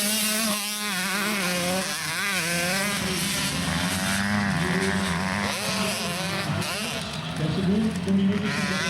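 85cc two-stroke motocross bikes racing, engines revving up and down with the pitch rising and falling as they accelerate and shift.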